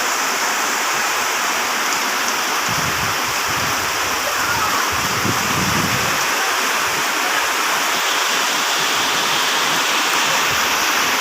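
Heavy rain pouring steadily, a dense even hiss, with a low rumble from about three to six seconds in.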